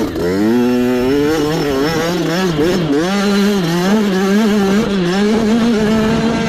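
Mini bike engine revving hard, its pitch rising and falling with the throttle, then holding fairly steady near the end.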